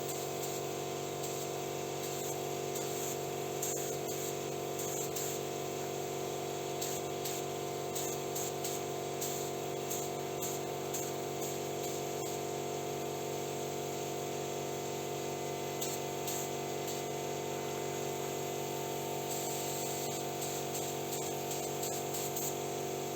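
Air spray gun hissing steadily as it sprays a wet coat of paint onto a car door panel, with a steady hum underneath.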